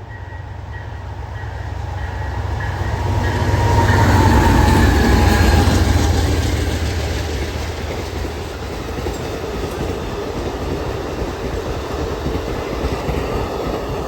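Train passing close by on the rails: the rumble swells to its loudest about four to six seconds in, then carries on as a steady rumble and clatter of rail cars rolling past.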